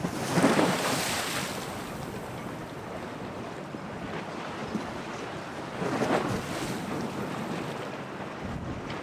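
Storm-driven waves washing and splashing at a harbour, with two louder surges, about half a second in and again around six seconds in, over steady wind buffeting the microphone.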